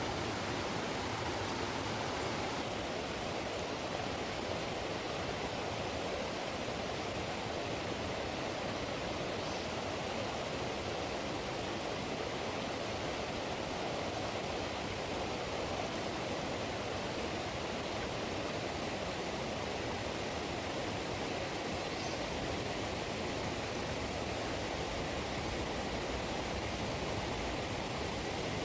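River water rushing steadily over rocks, an even, unbroken flow sound.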